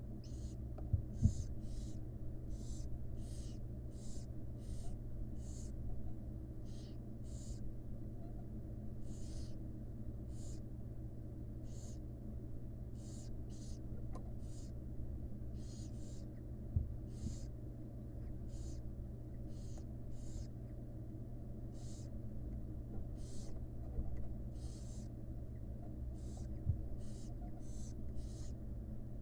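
Barn owl chicks giving their rasping, hissing begging calls over and over, about one to two a second, as they beg for food. A steady low hum runs underneath, with a couple of soft knocks in the nest box.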